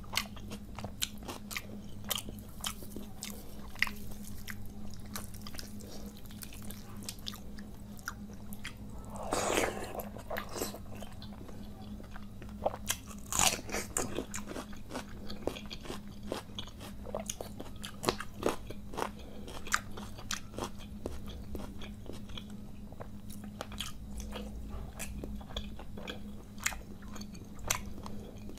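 Close-miked sounds of a person chewing and crunching mouthfuls of panta bhat (soaked rice) with fried hilsa fish. Many short, sharp crunches and bites come throughout.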